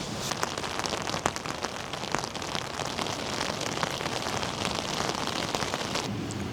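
Heavy rain, a dense patter of many sharp drop hits on a surface close by. About six seconds in it switches abruptly to a duller, steadier rain sound.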